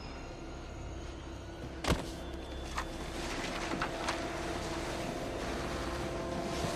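Film fight sound effects over a steady low subway rumble and hum: one hard impact about two seconds in, then several sharp clicks, with a steady humming tone coming in partway through.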